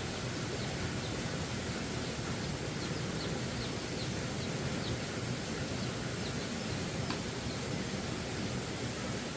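Steady outdoor background noise, with a few faint short high chirps in the middle, like a small bird.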